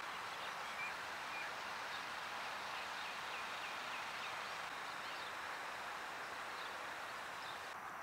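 Steady outdoor background hiss with faint bird chirps over it, including a quick run of about five short chirps around the middle.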